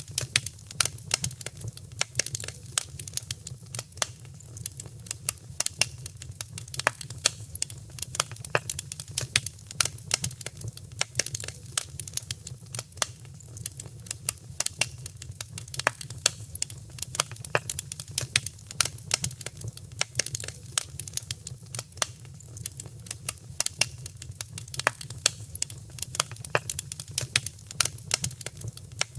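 Fire burning in a fireplace, crackling steadily with many irregular sharp pops over a constant low rumble.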